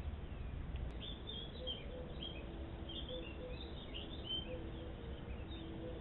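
Small birds chirping and twittering in quick, short high notes, thickest from about a second in to about four and a half seconds, over a low steady background rumble.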